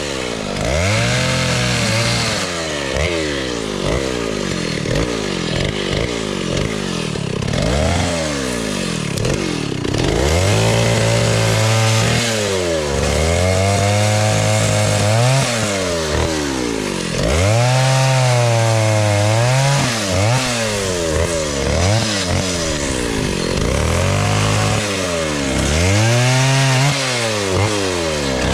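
Vintage Stihl S-10 56cc two-stroke chainsaw running and cutting wood, its engine speed rising and falling over and over, with stretches held steady at high revs.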